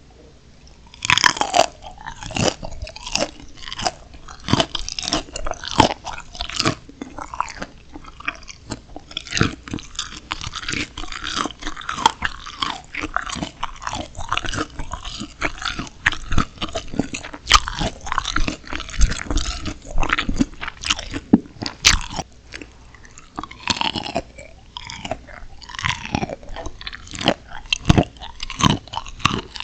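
Close-miked crunching bites and chewing of steamed shrimp eaten with fresh green chilli pepper. A loud first bite comes about a second in, followed by dense crackling crunches and more sharp bites near the end.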